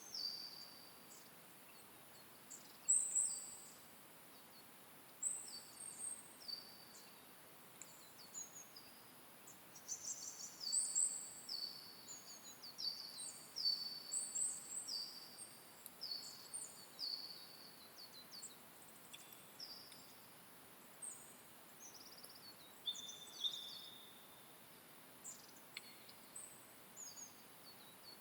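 Songbirds singing in a forest at dawn: many high, thin, short notes in quick repeated phrases, several birds overlapping, above a faint steady hiss.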